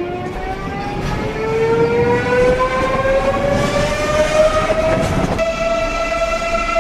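Electric train's traction motors whining, the pitch rising steadily as it accelerates, over the running noise of the train. About five seconds in, the sound cuts to a steady whine at the higher pitch.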